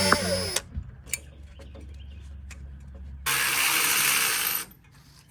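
A power tool runs on the tie rod end and upper control arm nuts in two bursts. The first, with a whine, stops about half a second in; the second runs for about a second and a half near the end, with faint clicks in between.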